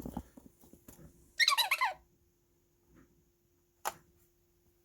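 Circuit-bent Telly the Talking Clock toy's voice chip with its pitch resistor shorted: a brief burst of sped-up, chipmunk-high warbling speech about a second and a half in, then a faint steady electronic tone and a single click near the end.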